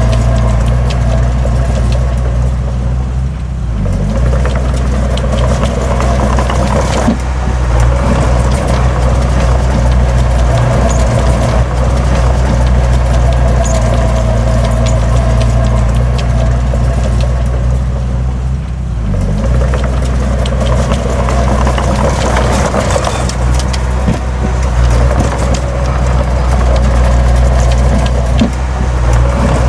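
Heavy diesel earthmoving machinery running, a low steady engine drone whose load rises and falls, with brief dips about four seconds in and again past halfway.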